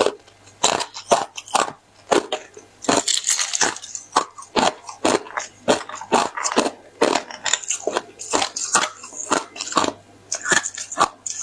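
Hollow pineapple ice being bitten and chewed: a rapid run of sharp, crisp cracks and crackles, a few every second, as the ice snaps and is crushed between the teeth.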